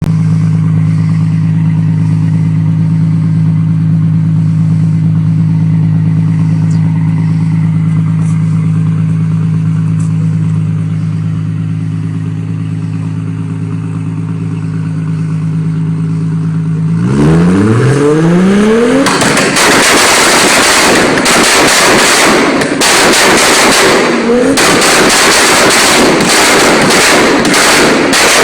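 A vehicle engine idling steadily, then revved up about two-thirds of the way in, after which the exhaust breaks into a rapid, continuous crackle of pops and bangs.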